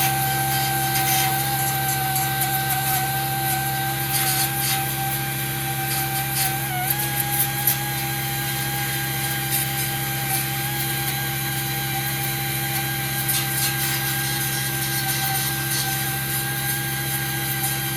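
Handheld power sanding tool running steadily as it grinds paint off a steel car body panel. It makes a constant whine over a rasping scrape, and the pitch dips briefly about seven seconds in as the tool is loaded.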